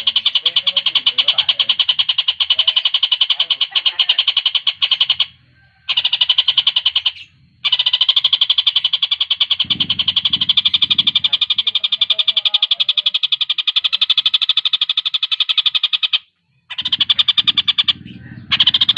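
Tengkek buto (collared kingfisher) calling in a fast, tightly packed rattling trill, delivered in long runs of several seconds with short breaks between them.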